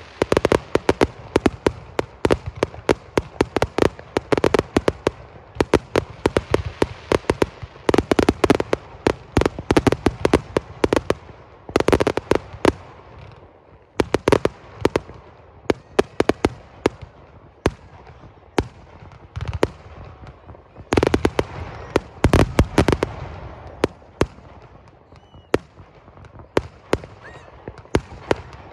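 Fireworks display going off in rapid volleys of sharp bangs, many a second, thinning out briefly about halfway through and again near the end.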